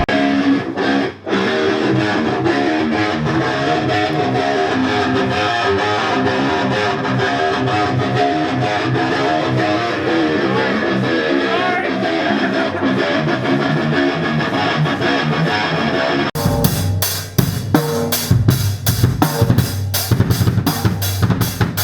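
Rock music with guitars playing; about sixteen seconds in, drums come in with loud, rapid hits.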